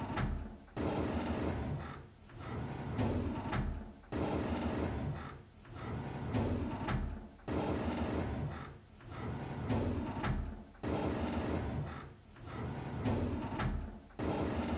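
A drawer sliding open over and over, its runners scraping with a new slide every second or two, several of them starting with a sudden knock.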